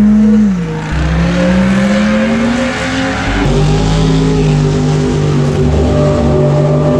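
Drag race car engine accelerating hard, its pitch climbing for a few seconds and then dropping to a lower steady note at a gear change about three seconds in.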